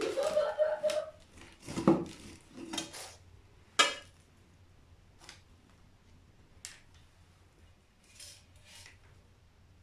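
Metal parts of a brake booster and hand tools clinking and knocking as the booster is taken apart on the bench. A short metallic ring comes at the start, and the sharpest clink about four seconds in. Fainter taps follow.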